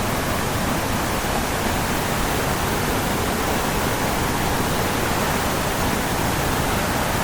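A powerful waterfall crashing steadily onto rocks and pool, a loud, even rush of water close by.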